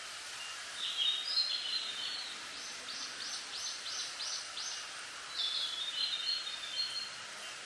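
A songbird singing short warbled phrases, with a run of about seven quick falling notes in the middle, over a steady hiss of wind through bamboo leaves.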